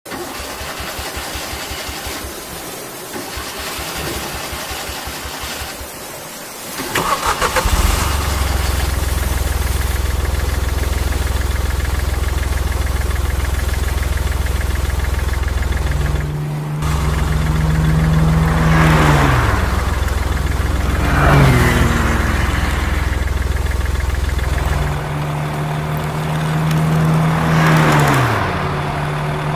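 A tractor engine starts up about seven seconds in and then runs steadily, with several falling whines in the second half.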